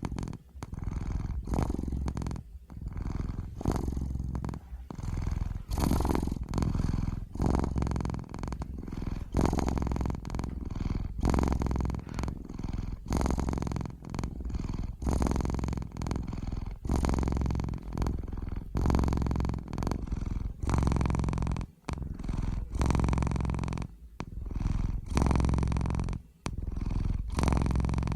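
Domestic cat purring close to the microphone, a continuous low rumble that swells and dips with each breath, about one breath cycle every second or two.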